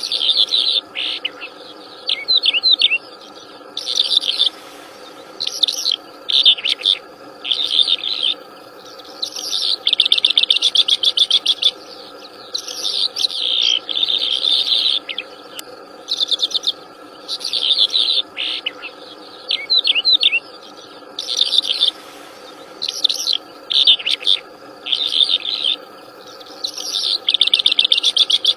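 A wild songbird singing loudly in short, repeated bursts of high chirps and rapid trills, each lasting about half a second to two seconds, with brief pauses between. A steady low drone runs underneath.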